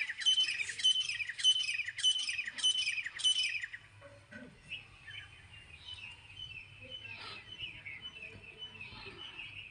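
Birds chirping: a loud, fast run of repeated calls, about three a second, for the first three and a half seconds, then fainter scattered chirps.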